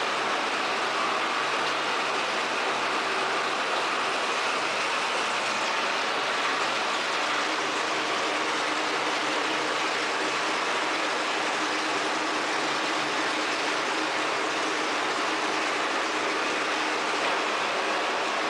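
Tire recycling line machinery running: a steady, dense mechanical noise with a faint hum, unchanging throughout.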